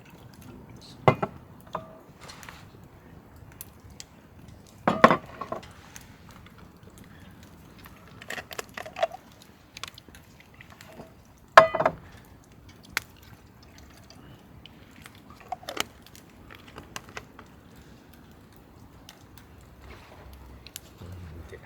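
Scattered knocks and clinks of camp cookware being handled, several leaving a brief metallic ring.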